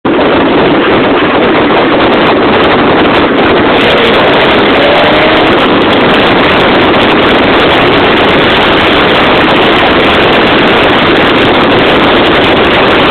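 Tiger Cat E1 kit car driving at speed, its engine running under heavy, steady wind noise buffeting the microphone.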